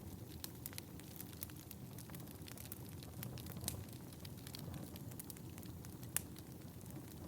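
Fire burning in a fireplace: a steady low rumble of flames with scattered crackles and two sharper pops, about four and six seconds in.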